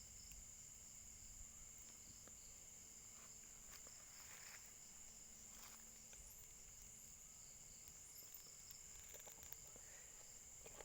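Faint steady high-pitched insect drone, with a low rumble underneath and a few faint short high chirps.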